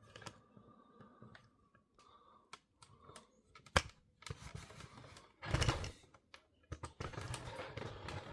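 Handling noises from tools and equipment being moved by hand: irregular clicks and knocks, a sharp click about four seconds in, and bursts of scraping noise around five and a half seconds and again from about seven seconds.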